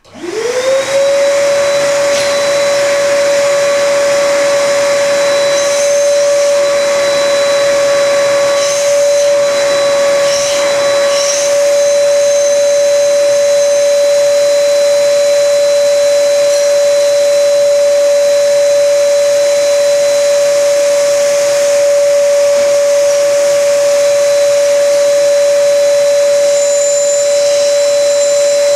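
AR Blue Clean 3270 1200-watt wet and dry vacuum cleaner switched on in suction mode. Its motor spins up within about a second to a steady whine and keeps running.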